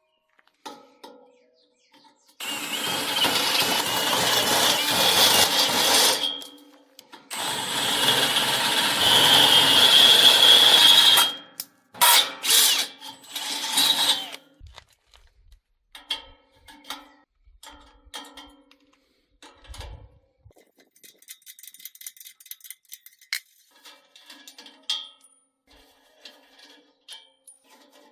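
Handheld power tool working steel in two runs of about four seconds each, with a high whine over the noise, then a few short bursts. Light metal clicks and knocks of handling follow.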